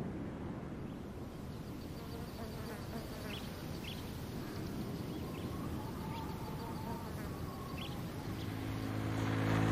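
Faint duck quacking and a few short chirping calls over a steady low rumble. Near the end a motorcycle engine approaches and grows louder.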